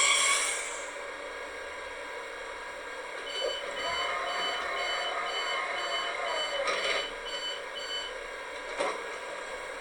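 Electronic warning beeps, a high tone repeating about twice a second for some five seconds, over a faint steady hum.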